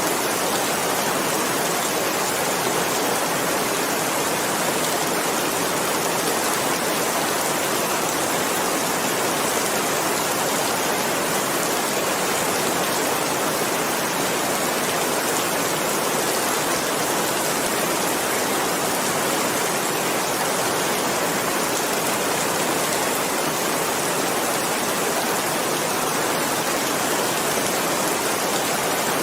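Steady heavy rain, a dense even hiss of falling water with no breaks or changes.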